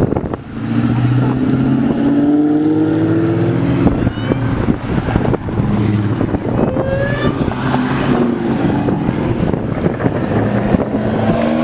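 Car engine accelerating hard, its pitch climbing and then dropping back at a gear shift about four seconds in, followed by further revving as the car pulls away.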